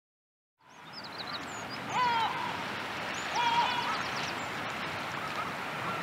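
Birds calling over a steady rushing background that fades in about half a second in. The loudest are honking calls with stacked overtones, about two and three and a half seconds in, among higher, quicker chirps.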